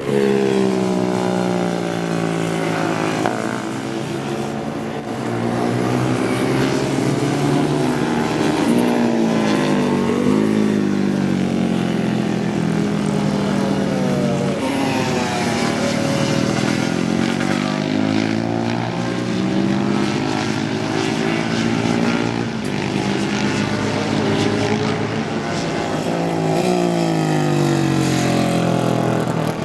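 Several vintage racing motorcycle engines at racing speed, overlapping, their pitch climbing as each bike accelerates and dropping at each gear change or as a bike passes.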